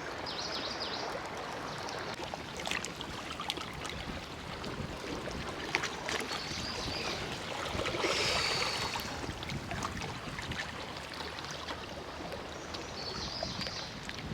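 Sea water washing and lapping at the shoreline: a steady wash of noise with scattered small clicks, swelling slightly about eight seconds in.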